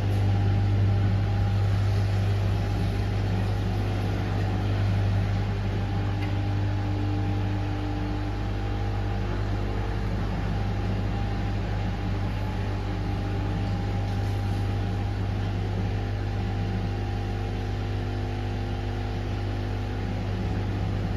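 Washing machine running a 40 °C cottons programme, giving a steady deep hum with fainter steady tones above it.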